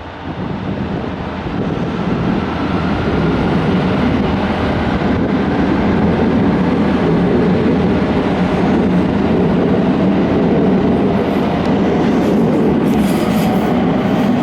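A train running along the station platform, growing louder over the first two seconds, then a steady rumble of wheels on rail with a faint whine above it.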